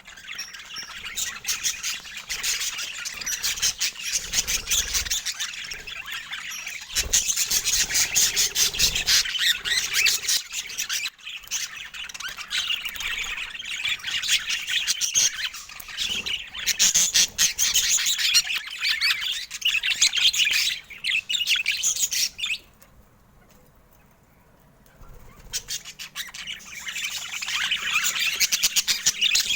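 Budgerigars chattering and chirping busily, a dense stream of fast, high warbles and squawks. There is a brief lull about three-quarters of the way through before the chatter resumes.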